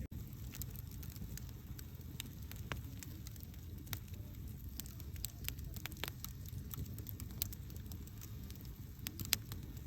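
Wood campfire burning: a steady low rush with scattered crackles and sharp pops, the loudest pop near the end.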